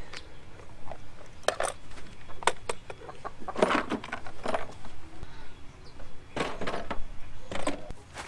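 Irregular knocks, clicks and clatters of hard objects being picked up and moved, with a few longer rattling clusters in the middle and near the end.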